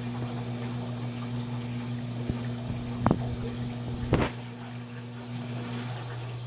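KMC washing machine running: water sounds over a steady electric hum, with two sharp knocks about three and four seconds in. A higher tone in the hum stops shortly before the end.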